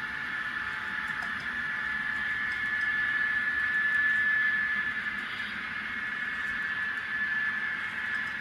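N scale model train running on the layout: a steady high motor whine over the hiss of wheels on track, growing a little louder about halfway through and then easing off.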